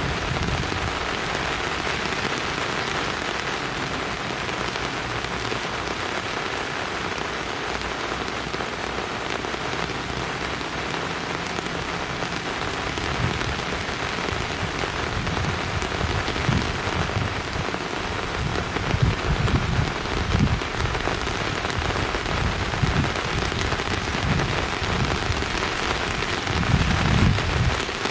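Steady hiss of rain, with irregular low rumbles swelling in and out in the second half.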